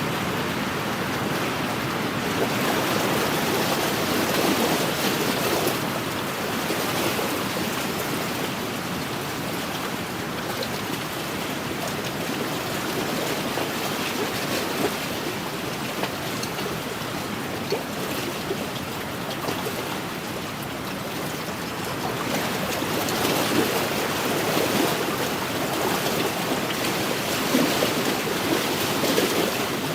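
Wind-driven waves washing against a lakeshore in a steady wind, the sound swelling and easing every few seconds.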